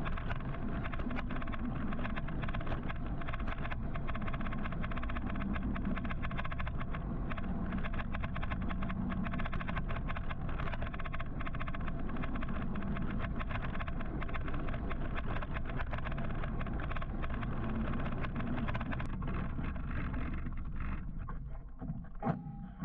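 Steady rush of wind and road noise while riding an electric motorcycle in city traffic, with a faint steady whine. The noise thins out and drops about 21 seconds in as the ride slows.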